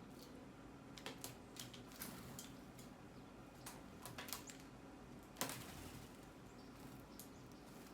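Small birds feeding, making faint scattered pecking taps and clicks, the loudest about five and a half seconds in, over a faint steady low hum.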